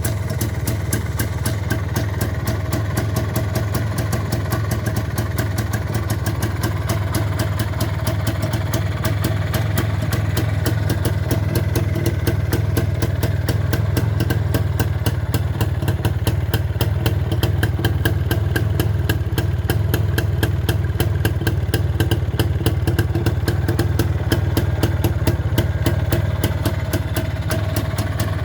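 Izh Planeta 5 motorcycle's single-cylinder two-stroke engine idling steadily from a cold start, with rapid even firing pulses.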